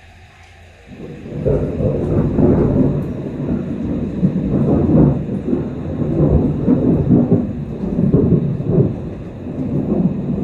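A long roll of thunder that sets in about a second in and goes on, swelling and easing in loudness, with rain falling underneath.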